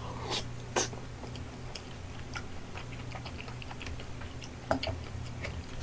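Close-up chewing of chewy stir-fried gopchang (intestines): scattered wet mouth clicks, a little louder twice near the start and once near the end, over a low steady hum.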